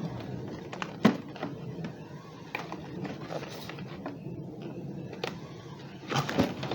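Cardboard fireworks packaging being handled: scattered taps and light rustling, with one sharp knock about a second in and a cluster of knocks near the end.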